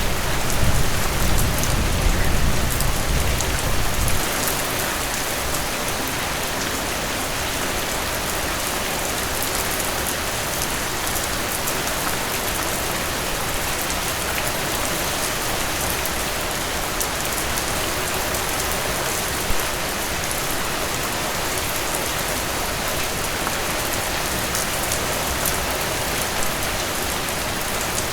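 Heavy rain falling steadily. A low thunder rumble dies away in the first four seconds or so.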